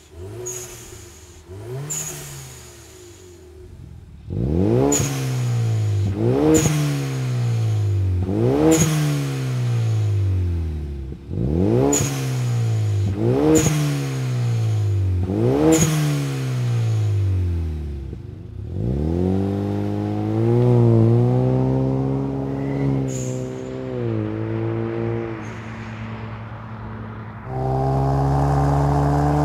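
2015+ Mustang's 2.3-litre EcoBoost turbo four-cylinder free-revving in quick blips about every two seconds, each ending in the short hiss of an HKS SSQV blow-off valve venting, heard first through the stock exhaust and then through a Magnaflow Competition axle-back with straight-through mufflers. Longer held revs follow, and near the end the car pulls away under steady acceleration, the engine note rising.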